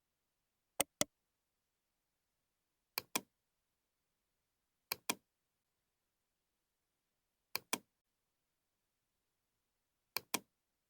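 Computer mouse button double-clicking: five double-clicks, each a pair of sharp clicks in quick succession, about two seconds apart, with dead silence between them.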